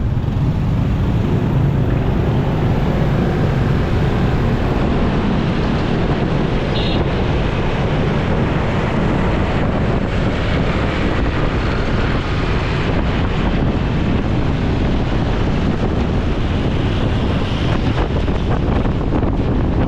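Steady wind rush on the microphone of a moving motorcycle, over engine and traffic noise.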